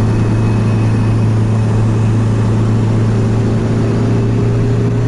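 Car engine and road noise heard from inside a moving car, a loud, steady low drone at an even pitch as it cruises at constant speed.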